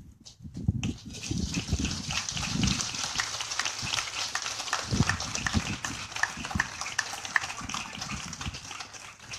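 Crowd applauding, a dense patter of clapping, with wind rumbling on the microphone.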